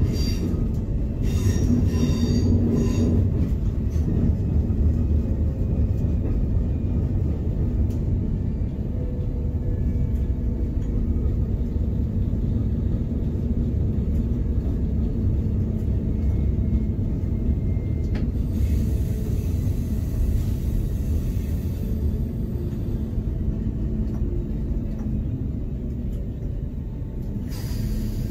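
Passenger train running, heard from the driver's cab: a steady low rumble of wheels on track, with brief high-pitched wheel squealing between about one and three seconds in.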